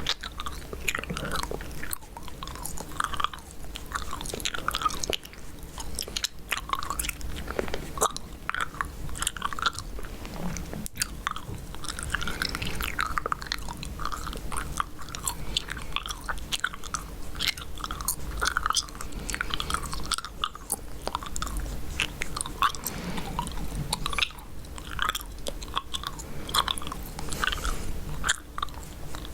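Close-miked chewing gum being chewed continuously, with rapid irregular wet smacks and clicks of the mouth.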